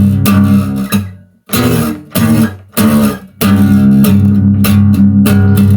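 Instrumental break of a rock song, with guitars and bass guitar playing. The band cuts out abruptly a little over a second in, plays a few short stop-start hits, and comes back in full about three and a half seconds in.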